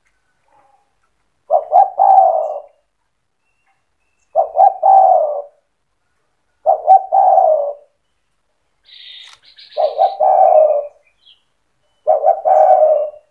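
Spotted dove (tekukur) in full song, giving five repeated cooing phrases of about a second each, one every two to three seconds. A brief higher chirp comes shortly before the fourth phrase.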